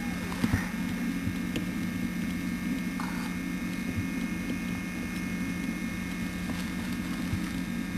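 Steady low electrical hum under a hiss floor, with a few faint clicks and taps.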